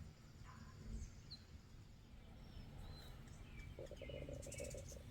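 Faint bird chirps over quiet background noise, with a faint steady tone for about a second near the end.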